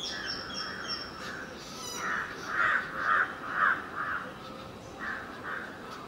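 A bird calling a series of five harsh, evenly spaced notes, about two a second, with fainter, higher-pitched calls in the first second.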